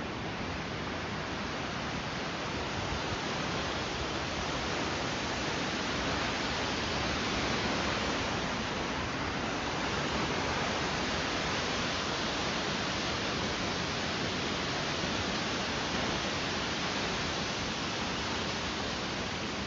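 A steady, unbroken rushing noise with no distinct events in it.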